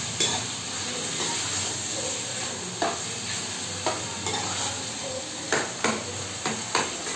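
Minced meat frying in spice masala in a metal pot: a steady sizzle while a metal spoon stirs it, with scattered knocks of the spoon against the pot, several in the second half. The keema is being browned (bhuna).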